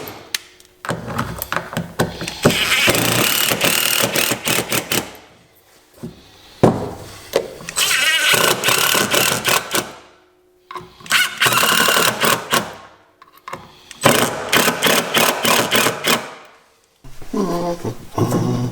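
A handheld power tool run in four bursts of a few seconds each, with short pauses between them: a fast, rattling buzz used on fasteners during the ignition work.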